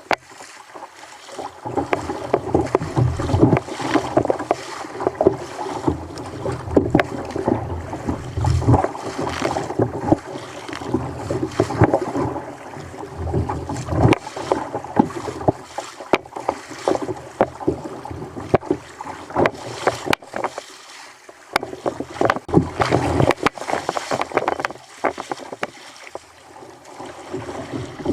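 Choppy sea water slapping and sloshing against a fishing kayak's hull, with irregular knocks and some wind on the microphone.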